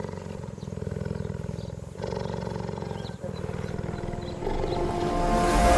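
A big cat roaring in long, rough, low growls, with short breaks between them. Near the end a louder sound with several held tones rises over it.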